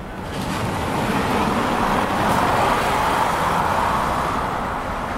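A passing road vehicle: a rushing noise that swells over the first two seconds and slowly fades.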